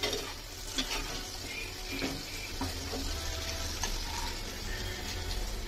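Potato pieces sizzling steadily in hot oil in a frying pan, with a few short scrapes and taps of a steel spatula as they are pushed across the pan to be served.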